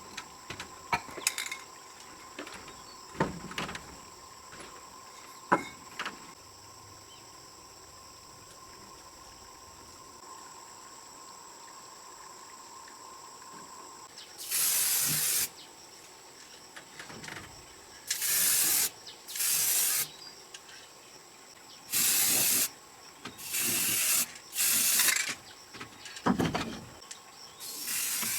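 Repeated short bursts of spraying hiss, about seven in the second half, each under a second long. A few scattered knocks come in the first seconds.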